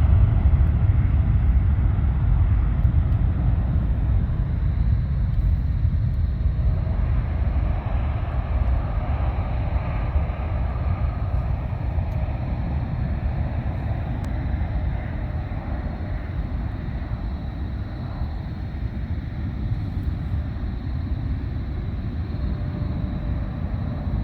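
Jet airliner engines rumbling deep and steady, slowly fading.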